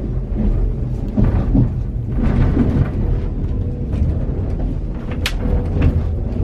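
Steady low rumble of the train carriage heard from inside the sleeper compartment, with a brief high squeak about five seconds in.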